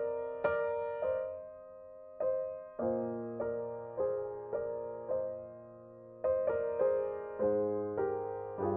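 Soft background piano music: single notes and chords struck about one or two a second, each left to ring and fade.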